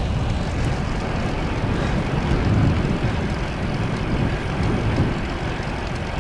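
Headwind buffeting the microphone of a rider's camera on a moving bicycle: a steady, loud rumble with irregular low gusts.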